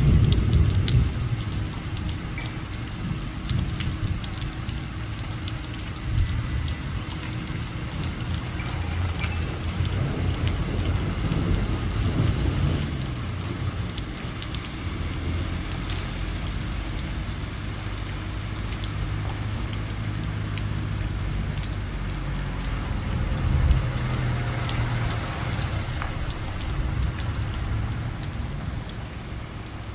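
Heavy diesel machinery running, the backhoe and dump truck engines working, their pitch and level rising and falling a few times. A steady hiss lies over the engine sound throughout.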